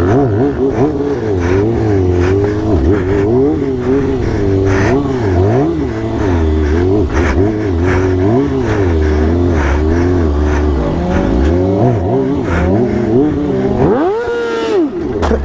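Motorcycle engines revving up and down over and over. Near the end one engine revs sharply up to a high pitch and drops back.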